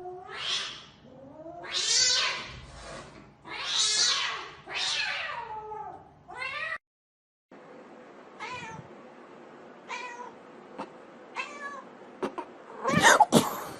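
Cat meowing in long, drawn-out yowls that rise and fall in pitch, about five in the first half. After a brief cut, shorter meows follow, with a louder cry near the end.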